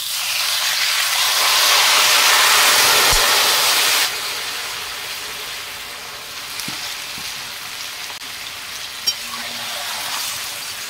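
Raw chicken pieces dropped into hot mustard oil in a karahi, setting off a loud, hissing sizzle of frying. The sizzle starts suddenly, is loudest for the first four seconds or so, then drops abruptly and goes on steadily at a lower level.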